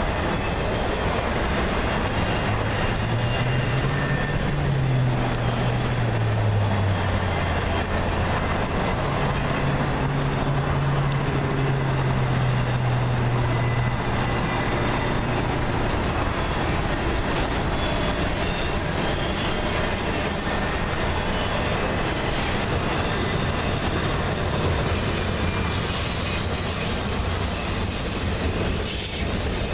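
Freight train cars rolling past on the rails: a steady rumble and clatter of wheels, with a low hum that rises and falls in pitch during the first half.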